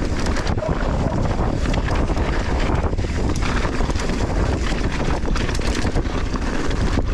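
Wind rushing over a GoPro's microphone during a fast downhill mountain-bike run. Through it come many short clicks and knocks, the clatter of the bike and its tyres over loose volcanic soil.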